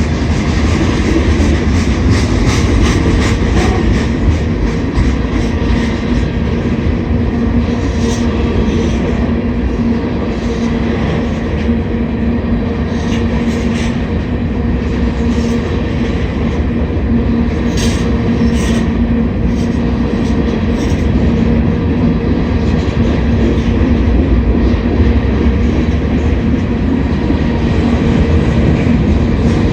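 Slow freight train rolling past: a steady rumble and rattle of railcars, with a continuous hum and occasional sharp clacks of wheels over the rail.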